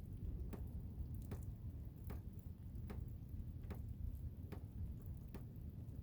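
Low, steady rumble of blizzard wind, with a sharp tick about every three-quarters of a second.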